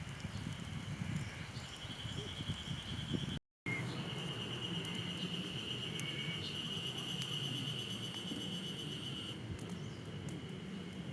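Insects shrilling outdoors: a steady high-pitched drone that stops and starts again, over a low rumbling background. The sound drops out completely for a moment about three and a half seconds in.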